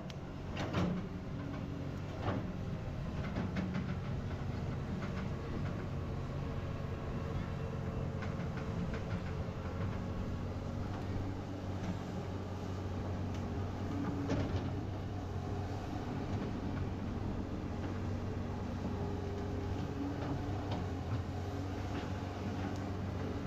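Excavator engine running steadily, with a few knocks and clanks in the first few seconds.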